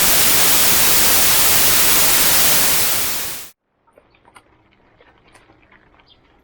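Loud, even hiss of white-noise static that cuts off suddenly about three and a half seconds in, followed by faint scattered clicks.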